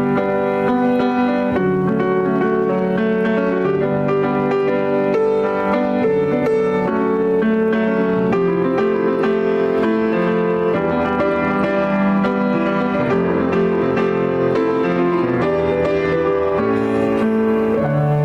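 Instrumental piano music: held chords that change every second or two.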